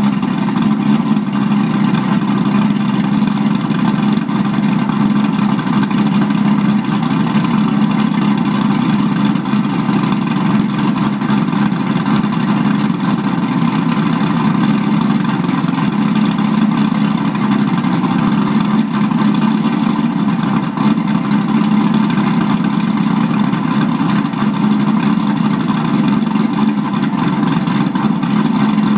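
Car engine running cold at a steady idle, a constant low drone that holds without revving or stopping.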